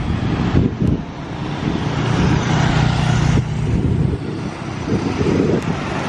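Jet airliner engine noise, a loud steady rush that dips briefly about half a second in and again near the middle.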